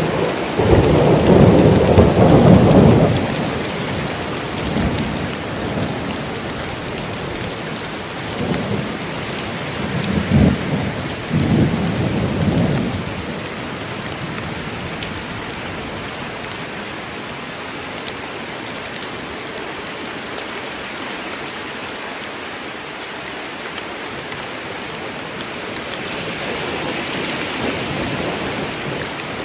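Steady rain with thunder rumbling: a loud roll of thunder in the first few seconds, a few shorter rumbles around the middle, and a soft swell near the end.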